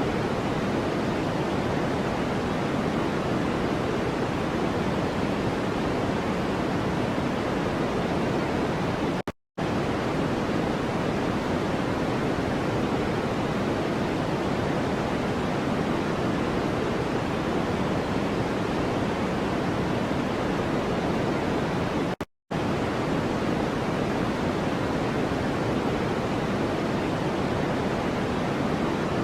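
Steady white-noise track: an even, deep hiss with more weight low than high, cut by two brief dropouts to silence about 9 and 22 seconds in.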